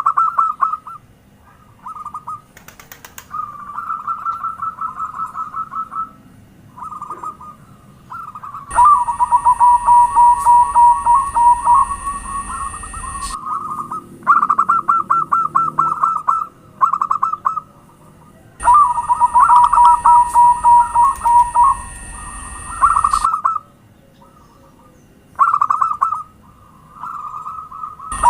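Zebra doves (perkutut) singing: phrases of rapid, staccato cooing notes, each a few seconds long with short pauses between, some phrases overlapping. It is a lure recording played to set captive perkutut singing.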